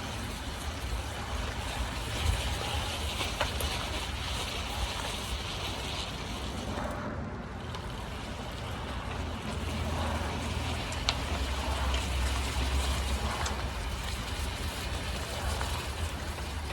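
A car pushed back and forth by hand in neutral, its tyres rolling with a low rumble and a few light clicks. There is no loud noise from the driver's side rear, now that the pressed-in tension on the half-shaft U-joint has been released.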